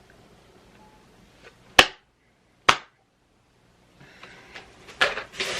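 Two sharp clicks about a second apart, each followed by dead silence, then a growing rustle and clatter of small items being handled near the end.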